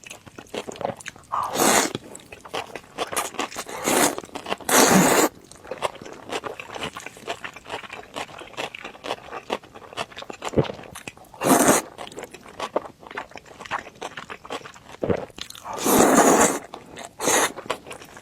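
Close-up mukbang eating of cold noodles with vegetables: wet chewing and crunching with constant small mouth clicks, and several louder bursts of slurping or crunching, the longest near the end.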